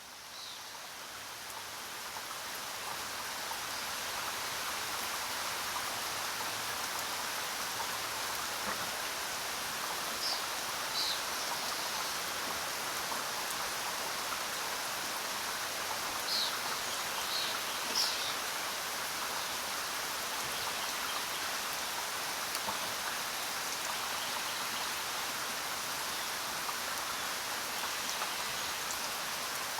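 Steady rain in a jungle, a dense even hiss that fades in over the first few seconds and then holds. A few short, high bird chirps come through the rain about ten seconds in and again around sixteen to eighteen seconds in.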